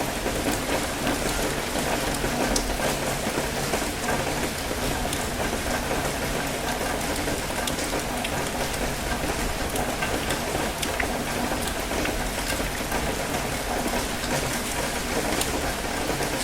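Steady light rain falling, with scattered distinct drops ticking through it, mixed with the even wash of gentle ocean waves over rocks.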